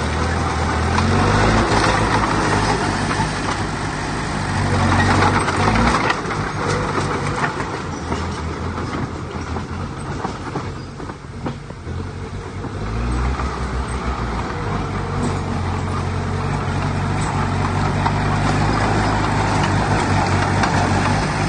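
Heavy diesel engine of earthmoving machinery working under load, its pitch rising as it is throttled up about a second in and again about 13 seconds in, over a dense rattling noise.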